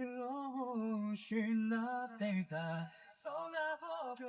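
A single voice singing quietly in held, wavering notes.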